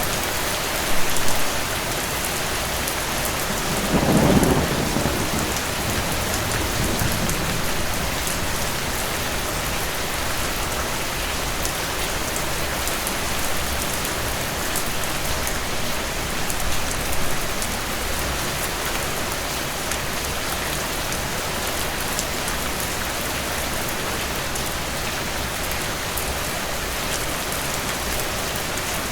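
Steady rain with a roll of distant thunder that swells about four seconds in and dies away over the next few seconds.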